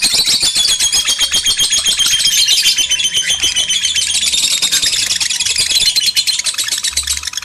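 Lovebirds chattering in a fast, shrill, unbroken run of chirps with high whistled trills over it, the excited breeding-condition calling used as a lure for other lovebirds.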